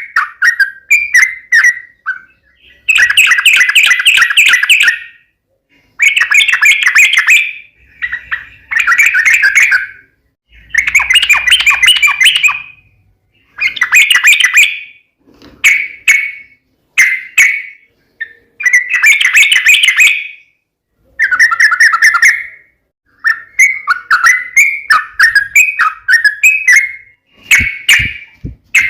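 Sooty-headed bulbul (trucukan) singing loudly in repeated phrases of fast, bubbly chattering notes, each phrase one to two and a half seconds long with short pauses between.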